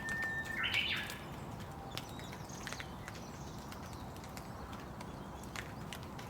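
Steady rain falling, with scattered drips tapping throughout. Under a second in, a bird gives one short, loud call.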